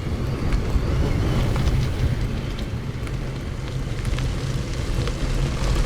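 Wind rumbling on the microphone over the crackle of mountain bike tyres rolling on a dirt forest road, with scattered faint clicks.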